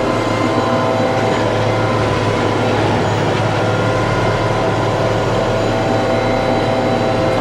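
TYM T654 tractor's diesel engine running steadily at a constant, fairly high speed.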